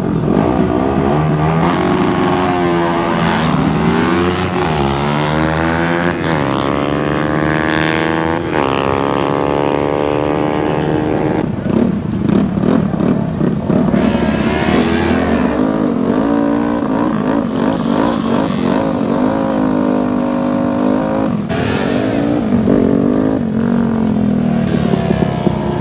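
Racing motorcycles accelerating hard on a drag strip, the engine pitch climbing, dropping at each gear change and climbing again, several times over.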